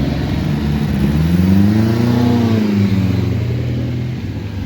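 Off-road car engine revving up and easing back down once over about two seconds, amid steady engine noise.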